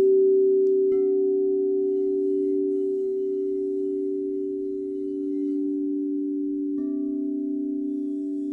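Crystal singing bowls ringing in long, steady, overlapping tones. A light strike about a second in and another near the end each add a fresh, higher tone to the sustained hum.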